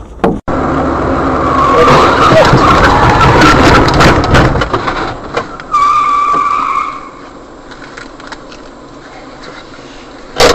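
Car on the road with loud tyre and road noise for a few seconds. A steady high tone sounds for about a second, about six seconds in.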